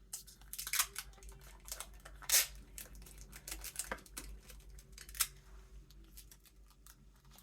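Packing tape being pulled off its roll in a series of short rips, with rustling from handling the tape and craft pieces; the loudest rip comes about a third of the way in.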